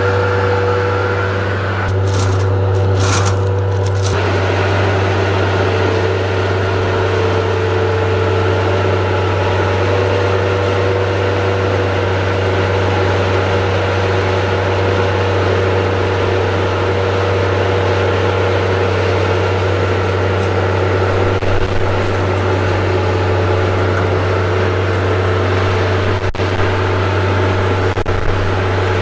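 Engine of a machine running steadily, likely the machine used to move a large diesel fuel tank. About two to four seconds in there is a brief high hiss.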